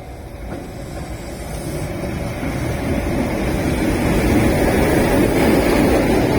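Keihan 600 series two-car electric train approaching, its running noise growing steadily louder throughout.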